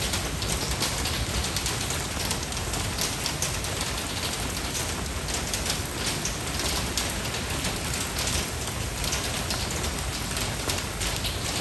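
Steady rain, a dense patter of many small drops at an even level throughout.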